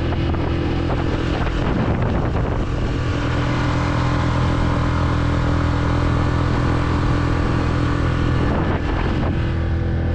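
A small boat's outboard motor running steadily, with the boat under way. Its pitch shifts briefly about two seconds in and again near the end as the throttle changes. Wind is heard on the microphone.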